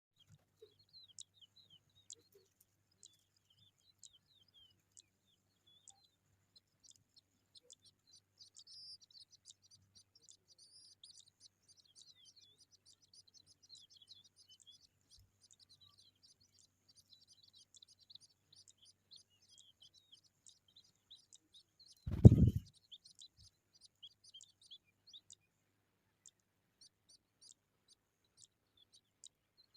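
Skylarks chirping faintly, rapid high notes running on for long stretches. Once, in the last third, there is a single loud, low thump.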